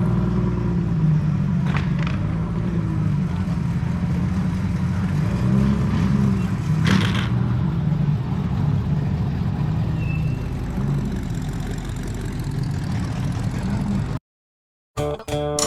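A car engine running steadily with a low rumble, swelling slightly in pitch a few times, and a brief whoosh about halfway through. Near the end it cuts off abruptly to silence, and music begins just before the end.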